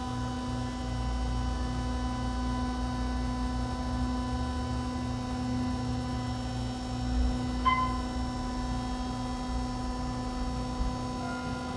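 Otis hydraulic elevator travelling up, its pump and motor giving a steady, even hum with a low rumble. There is one short sharp sound about eight seconds in.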